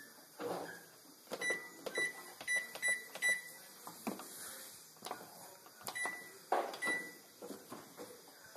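Brastemp washing machine's control panel beeping as its buttons are pressed: five short high beeps in quick succession, then two more a few seconds later, among light clicks and knocks.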